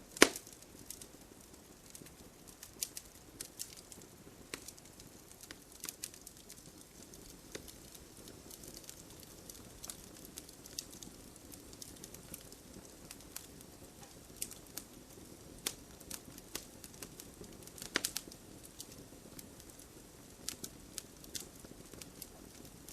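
Campfire crackling, with irregular sharp pops over a soft, steady hiss. The loudest pops come just after the start and about eighteen seconds in.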